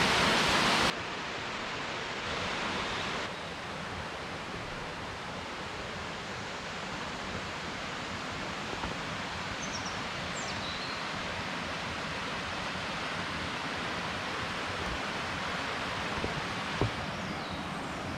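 Steady rush of falling and running water from a mountain waterfall and stream, louder for the first second before dropping suddenly to a lower hiss. A few faint bird chirps come in around the middle and near the end, with a single click shortly before the end.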